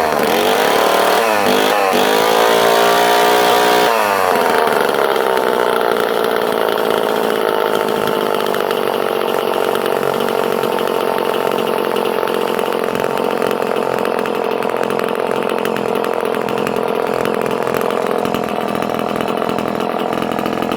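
Vintage Homelite C51 77cc two-stroke chainsaw running: revved up and down a few times in the first four seconds, then settling to a steady lower speed.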